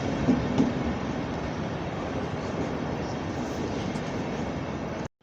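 Train moving along the platform tracks, a steady rolling rumble with a few light clicks in the first second, cut off abruptly near the end.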